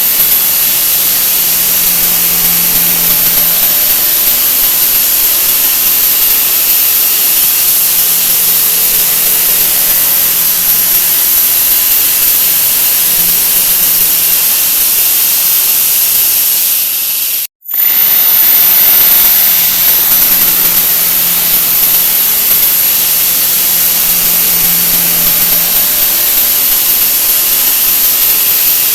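A 'wah wah' sound effect digitally sped up so many times that it has turned into a steady, loud hiss with a high whine on top, like a jet engine. It cuts out for an instant about 17 seconds in, then resumes.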